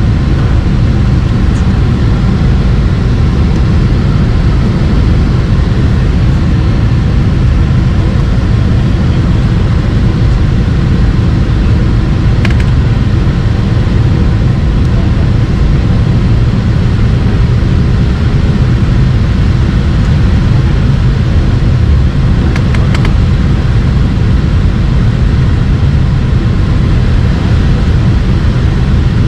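Steady low roar inside the cabin of a Boeing 767-300 with General Electric CF6 engines, unchanging throughout. Two brief faint clicks come about twelve and twenty-three seconds in.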